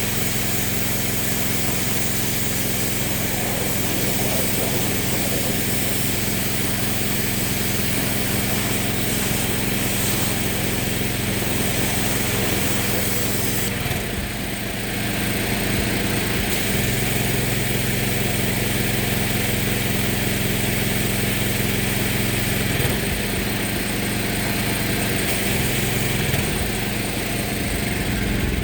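Pressure washer running steadily while its water jet sprays with a dense hiss, rinsing degreaser off a car's engine bay. The motor's drone dips briefly about halfway through and shifts again near the end.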